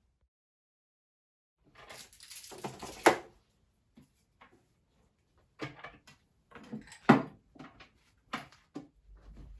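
Household objects being handled while tidying a room: a scraping rustle that ends in a sharp knock about three seconds in, then a run of knocks and clatters as things are moved and set down.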